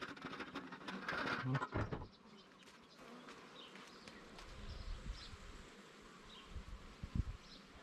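Agitated honeybees buzzing around an opened hive, a steady hum throughout. A loud burst of rustling and knocking handling noise fills the first two seconds.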